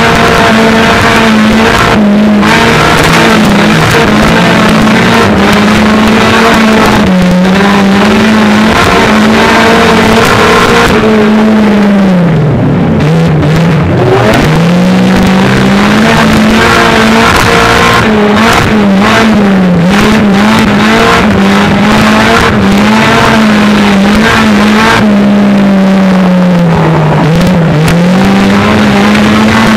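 Stock car's engine running hard at high revs, heard from inside the stripped, caged cabin. It is loud and mostly steady, and drops in pitch and climbs back twice, about halfway through and near the end, as the throttle is lifted and reopened. Occasional knocks break through it.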